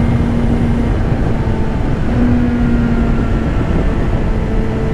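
BMW S1000RR's inline-four engine running at a steady cruise, its steady hum partly buried under loud, constant wind rush on the camera microphone.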